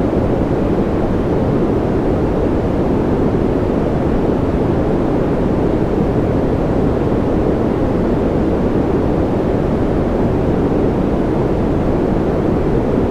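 Steady, even rushing noise of a sleep-sound noise track, deep and muffled rather than hissy, with no separate drops, clicks or changes.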